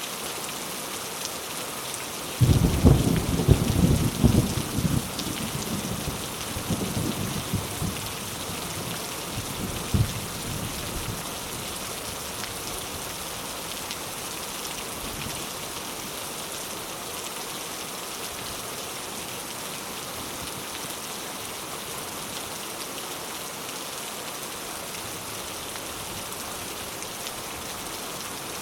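Steady heavy rain hissing, with a roll of thunder starting a couple of seconds in that rumbles for about eight seconds, loudest at first and fading out with one last crack.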